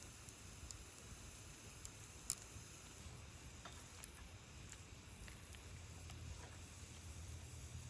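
Faint, sparse sharp clicks and pops, irregularly spaced with the loudest about two seconds in, over a low steady rumble.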